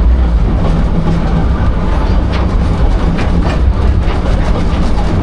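Steady low rumble of a passenger train car rolling along the track, with a few sharp wheel clacks over rail joints about halfway through.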